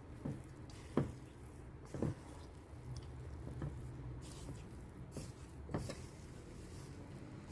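Ice cream scoop working sticky chocolate chip cookie dough: soft squishing with about five light knocks as portions are scooped and set down on the baking pan.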